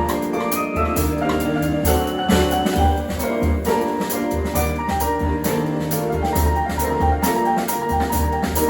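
Live jazz band playing: quick, busy keyboard and piano lines over a drum-kit groove with a pulsing low bass line.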